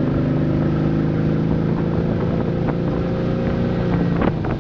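Wakecraft ZR6 inboard engine running steadily through side exhausts with stainless steel free-flowing silencers, giving a low, even exhaust note. A couple of short clicks come about four seconds in.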